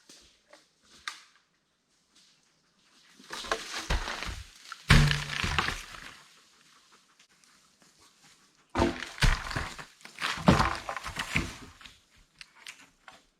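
Knocks and heavy thunks of wood being handled and struck, in two bursts of about three seconds each, with a few light clicks between.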